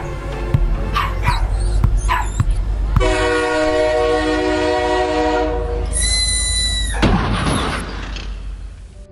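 A dog whimpering in several short cries, then a long held chord of many steady tones for about three seconds, a brief high tone, and a swelling whoosh that fades out.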